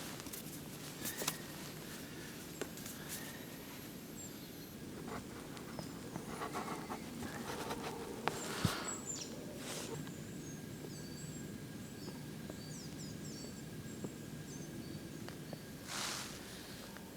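Quiet outdoor ambience with scattered rustles and clicks, and a run of short, high, thin chirps from a small bird in the second half.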